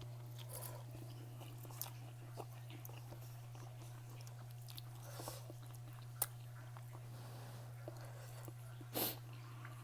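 A person chewing and eating close to the microphone: soft mouth noises and small scattered clicks, with one sharp click about six seconds in and a short rush of noise near the end, over a steady low hum.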